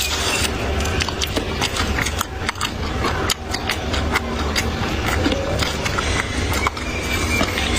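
Close-up eating sounds: irregular clicking and crunching of chewing, over a steady low hum.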